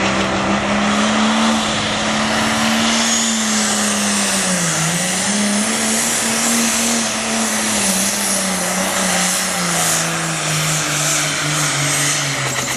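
Super stock pulling tractor's multi-turbo diesel engine running hard under load, with a high whine above the engine note. The engine note dips about five seconds in, recovers, then falls steadily over the last few seconds.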